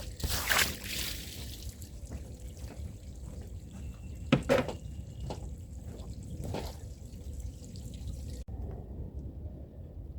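Water trickling and sloshing on a soaked rug as it is hand-scrubbed, with a few brush swishes and a single knock partway through. The wet sound cuts off abruptly about eight and a half seconds in, leaving only a low rumble.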